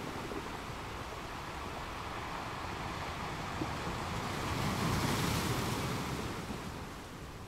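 Sea waves breaking on the shore: a steady wash of surf that swells to one louder break about five seconds in, then recedes.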